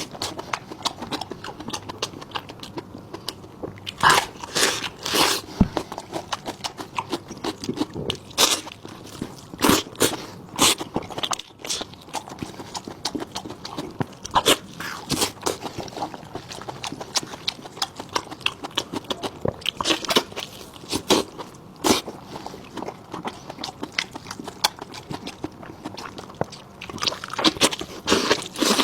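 Close-miked chewing and biting of cooked sheep stomach: a run of irregular crunching and clicking mouth sounds with short pauses between bites.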